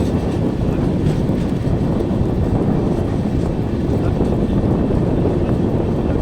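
Steady rumble of a passenger train running on the rails at speed, with wind noise.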